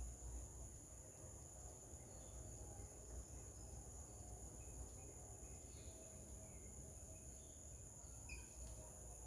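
Steady high-pitched insect drone, two constant tones, with a few short faint bird chirps scattered through it and one clearer chirp near the end.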